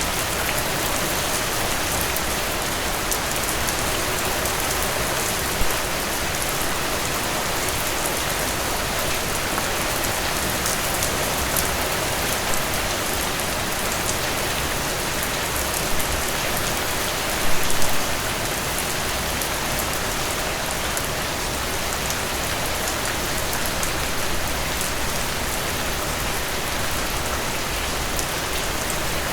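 Steady rain falling on a surface, with individual drops ticking through it and a brief cluster of louder drop hits about two-thirds of the way through.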